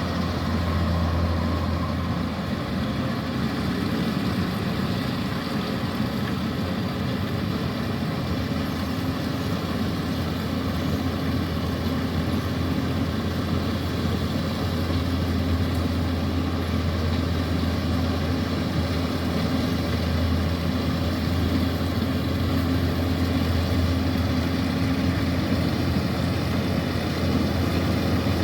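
Kubota DC-105X rice combine harvester's diesel engine running steadily with a constant low hum and machinery noise.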